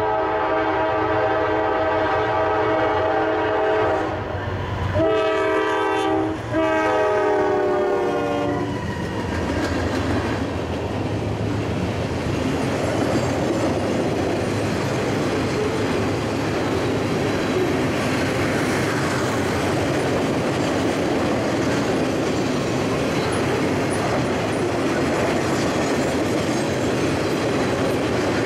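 Freight locomotive air horn sounding three blasts, a long one and then two more, ending about nine seconds in. The train then rolls past, and the wheels of its loaded rail cars on the track make a steady noise.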